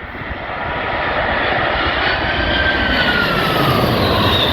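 A large airliner passing low overhead on its landing approach: the rumble of its engines swells over the first second or two, and a whining tone falls in pitch as it goes by.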